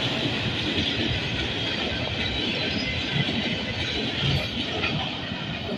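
Freight train cars rolling past at speed, steel wheels clattering over the rail joints with scattered knocks, growing slightly fainter near the end.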